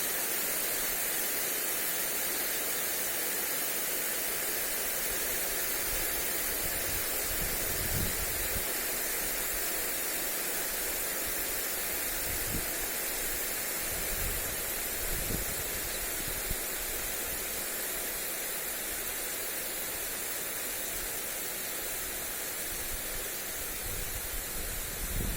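Lawn sprinkler spraying water onto grass: a steady, even hiss of spray. A few short low gusts of wind buffet the microphone now and then.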